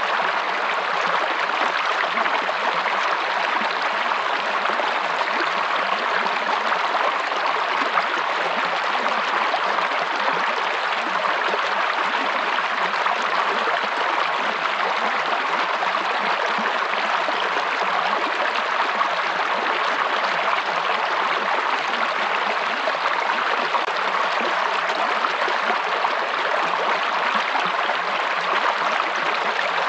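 Running water of a stream, flowing with a steady, even rush that does not change.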